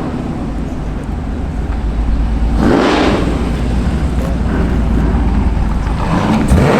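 A car's engine running loudly, swelling twice, about three seconds apart.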